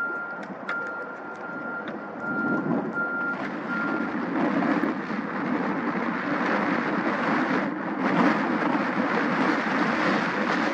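A reversing alarm beeps in regular half-second tones and stops about four seconds in. Meanwhile a loud, steady rushing noise of jet engines builds and takes over.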